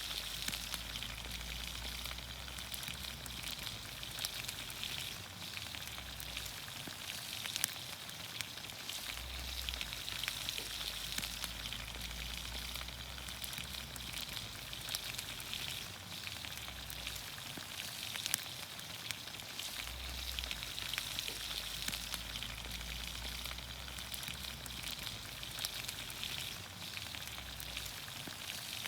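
Vegetables sizzling in olive oil over a campfire: a steady frying hiss with frequent small pops and crackles. A low rumble comes and goes underneath.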